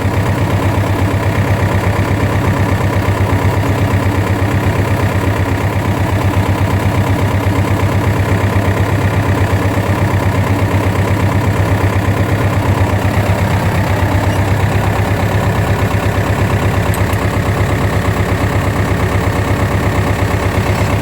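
Tractor diesel engine running steadily at low revs, heard from on the tractor with a strong, even low chugging throughout.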